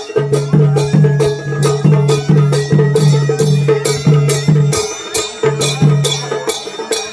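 Choliya dance band music: drums and cymbals keep a steady beat of about two and a half strikes a second, over a held high note and a pulsing low note that drops out about six and a half seconds in.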